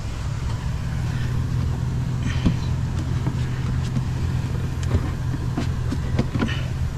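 A vehicle engine idling with a steady low hum, under a few scattered knocks and clatters from items being handled.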